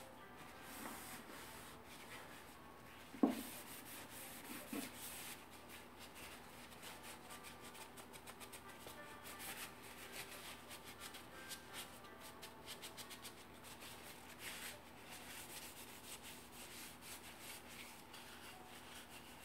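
Teak wood being rubbed by hand in quick repeated strokes, as in sanding or wiping during refinishing. Two sharp knocks sound about three and five seconds in.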